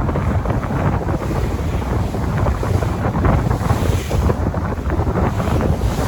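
Sea waves washing and splashing, with wind rumbling on the microphone underneath.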